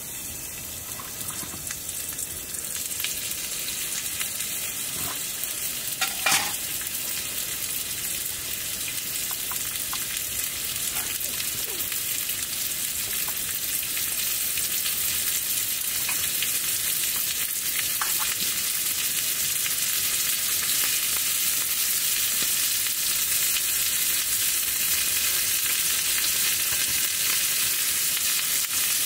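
Food sizzling in hot oil in a pan on a camping gas stove, a steady frying hiss that grows louder over the first half. A few light utensil knocks, the sharpest about six seconds in.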